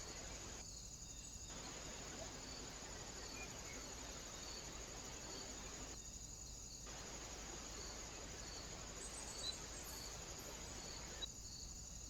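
Faint outdoor ambience through a trail camera's microphone: a steady hiss with a continuous high insect chirring, broken three times by short dropouts where one recording cuts to the next.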